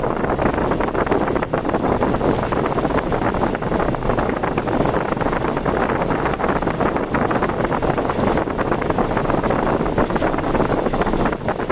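Steady rushing wind and road noise from a car driving in typhoon winds.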